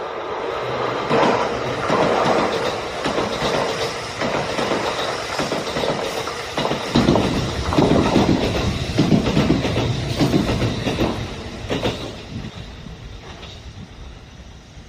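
Kintetsu electric train running past on the rails, its wheels clattering in a string of repeated pulses, the sound fading away over the last few seconds.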